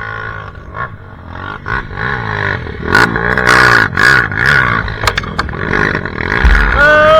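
Off-road dirt bike engine revving hard in repeated bursts, its pitch rising and falling as the throttle is worked to climb rough ground, with sharp knocks and clatter mixed in. A loud rev swells and falls near the end.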